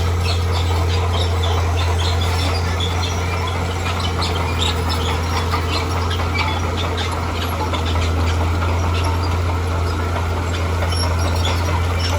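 Bulldozer's diesel engine running with a steady low drone, overlaid by frequent short, high squeaks and clinks of the kind a crawler's steel tracks and pushed rock make.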